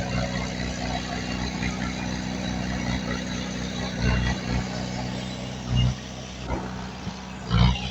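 Diesel engine of heavy earthmoving equipment running steadily, with three heavy thumps about halfway, near three quarters and near the end.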